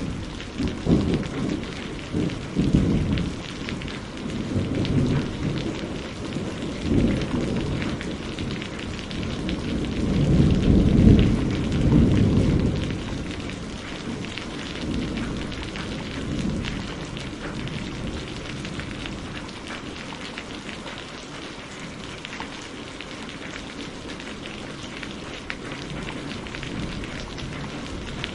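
Steady rain pattering, with thunder rolling through the first half. The rumble is loudest about ten to twelve seconds in, then dies away, leaving the rain alone.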